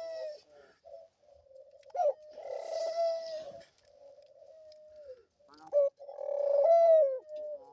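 Dove cooing: two long, loud coos, with softer, lower coos between them.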